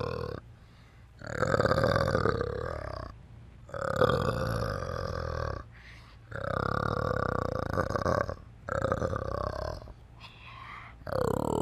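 An animal giving a series of long, rough, low calls, about five in all, each lasting one to two seconds with short pauses between.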